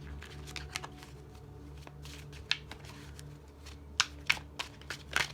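A deck of tarot cards being shuffled by hand, a run of sharp card snaps and slaps that grows denser and louder in the second half.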